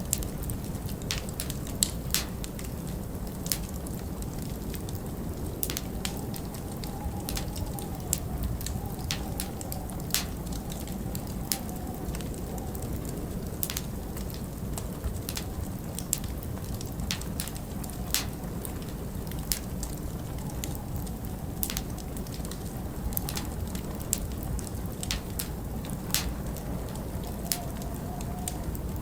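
Wood fire crackling in a fireplace, with frequent irregular sharp pops and snaps over a steady low rush of wind.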